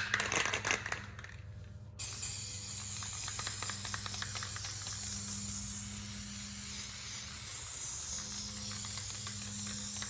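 Aerosol can of clear matte top coat spraying a liberal coat onto a canvas: a steady, even hiss that starts about two seconds in, after a few clicks.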